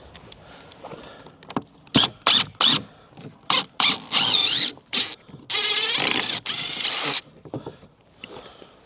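Nails or screws squealing as an old wooden step board is pried loose: a run of short squeaks about two seconds in, then two longer, wavering squeals, the last lasting more than a second.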